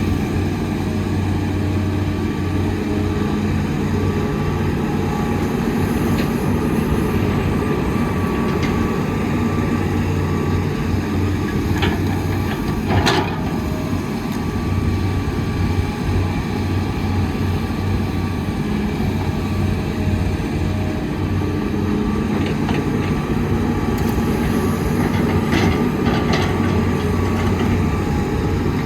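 Heavy diesel engine of an excavator running steadily under working load, with a few sharp metallic clanks and knocks about halfway through and again near the end.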